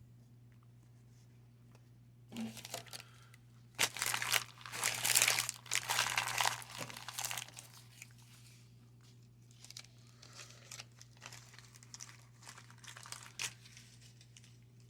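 Wax-paper wrapper of a 1990 Fleer baseball card pack being torn open and crinkled. A short rustle comes first, then loud tearing and crumpling for about three seconds from around four seconds in, and softer crinkling later on.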